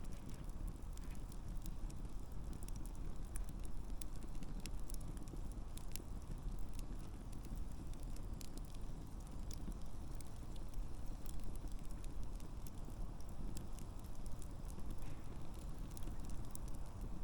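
Wood campfire burning with a steady low rush of flames and scattered sharp crackles and pops from the burning logs.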